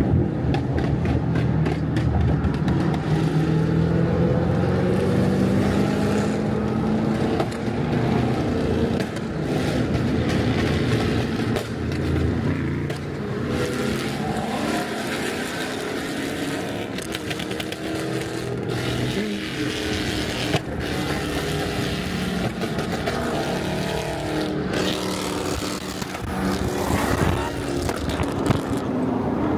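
Car engine and exhaust running continuously, its pitch drifting up and down, with scattered short clicks and knocks.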